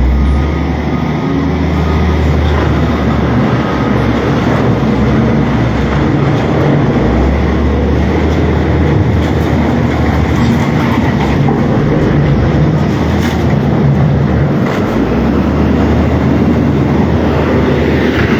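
Heavy diesel works machinery running close by: a loud, steady rumble with a deep drone that swells and eases off every few seconds, as if under changing load.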